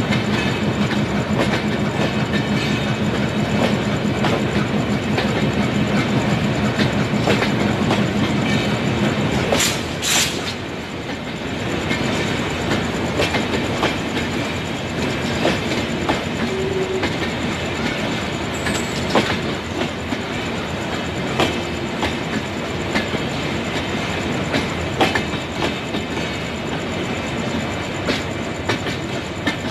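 Passenger train of LHB coaches rolling past, its wheels clicking steadily over rail joints and points. A steady low hum stops about a third of the way through, just as a brief high-pitched squeal sounds.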